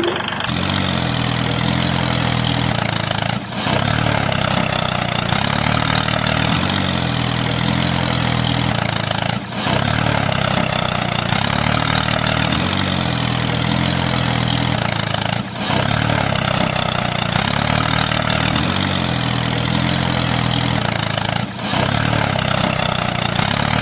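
A tractor engine idling steadily, as a repeated loop: the sound dips briefly about every six seconds and then carries on the same.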